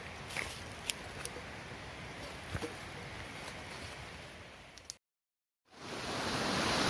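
Outdoor hiss with scattered light clicks and taps that fades out. After a brief silence at an edit, the steady rush of a waterfall fades in and grows louder.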